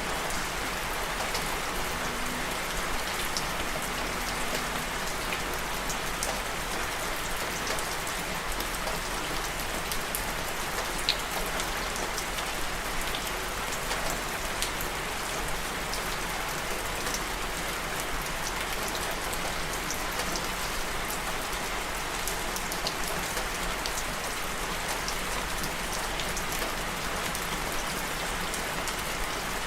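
Steady rain falling, with many individual drops ticking on a surface amid an even hiss.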